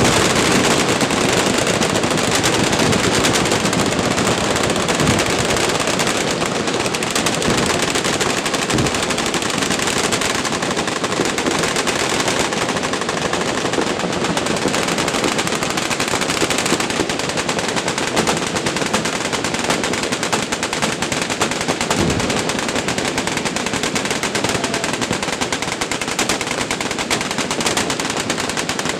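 Many machine guns firing at once in a continuous, overlapping barrage of automatic fire with no let-up.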